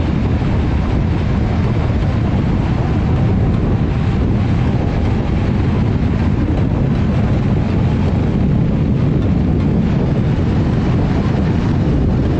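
Loud, steady wind rush buffeting the microphone, as on a fast ride on an electric bike.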